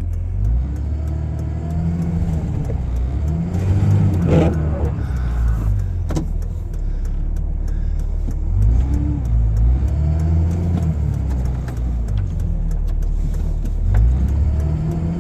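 Pickup truck engine revving up and dropping back in several surges, the sound of a truck stuck in a snow berm trying to drive free.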